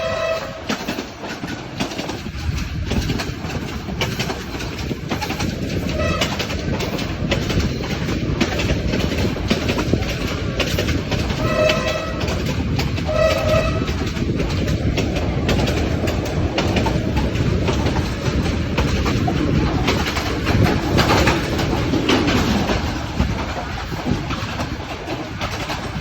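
Train running on the line with a steady rumble and clickety-clack of wheels over rail joints. A horn note breaks off at the very start, and two short horn blasts sound about a second and a half apart roughly halfway through.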